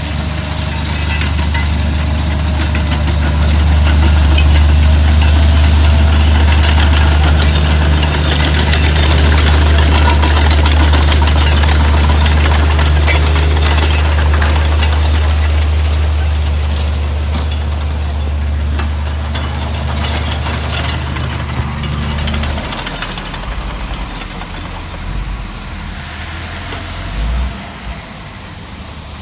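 Heavy diesel engine of earth-moving machinery running hard with a steady, loud low drone. It swells a few seconds in, then eases off about 22 seconds in to a lower, rougher rumble, with a brief surge near the end.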